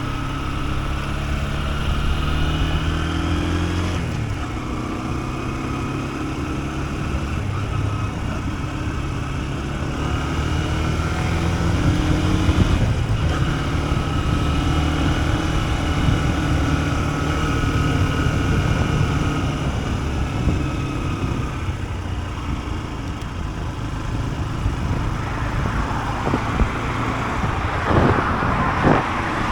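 Honda CB125F's single-cylinder engine running while the motorcycle is ridden, its pitch rising and falling with throttle and gear changes, over road and wind noise. A louder rush of noise comes in near the end.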